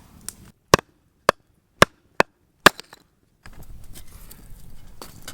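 Wood being chopped for the campfire: five sharp strikes about half a second apart, then a faint background with small ticks.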